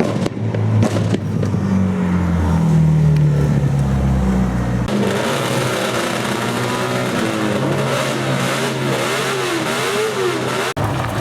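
Supercar engines running loudly and revving, with an abrupt cut to another car about five seconds in, whose engine pitch rises and falls rapidly, and another cut near the end.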